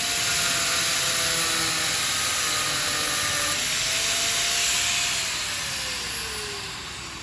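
A power tool runs with a strong hiss and a steady whine. About five seconds in, the whine falls in pitch and the sound fades as the tool winds down.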